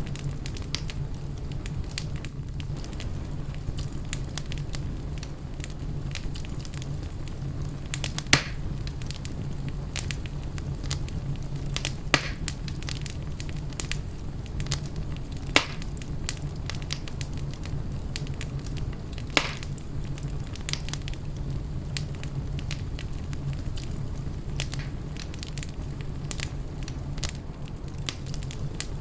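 Fire burning in a fireplace, crackling steadily over a low rumble, with a few louder sharp pops spread through it.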